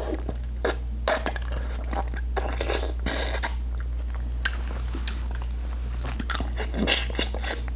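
Close-up eating sounds: biting and chewing on sauce-covered seafood, with crunches and wet mouth noises coming in irregular bursts, over a steady low electrical hum.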